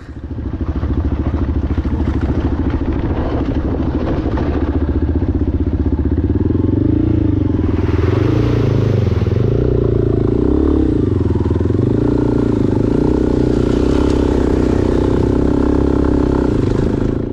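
Adventure motorcycle engine running steadily under way, with some wind noise; the engine pitch rises and dips a few times midway as the throttle changes.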